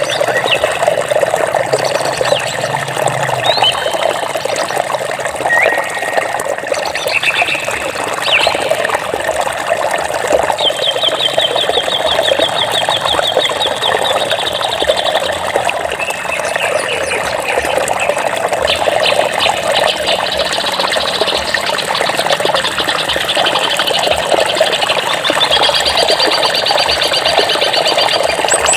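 Flowing water running with a steady rush, while small birds chirp and sing rapid trills over it, one long trill near the middle and more near the end.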